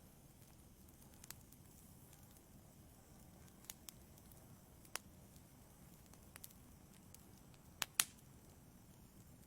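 Wood fire burning in a fireplace, faint and crackling: scattered sharp pops over a low steady hiss, with the loudest two pops close together near the end.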